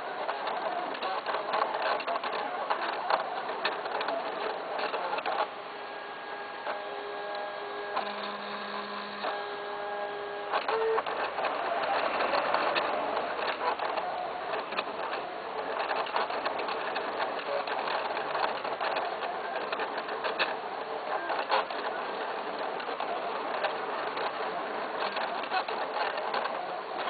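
A machine running with a dense, rapid clatter of ticks. A few seconds of steady tones sound over it about a third of the way in.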